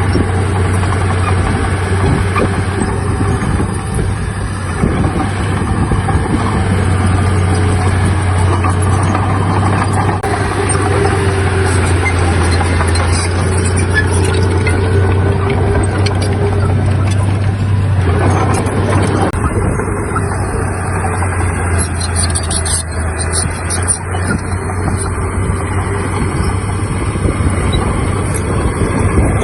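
Heavy diesel engine of earthmoving machinery running steadily with a deep, constant engine note. A little past halfway, some of the higher hiss drops away.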